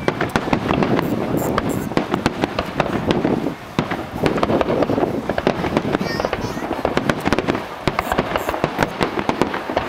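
An aerial fireworks display going off in rapid succession: a continuous barrage of sharp crackling pops and bangs over a steady low rumble.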